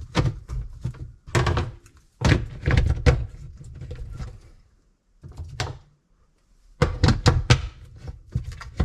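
Dishwasher parts being fitted back into place by hand: a series of irregular knocks and clunks, with a brief quiet spell about five to six seconds in.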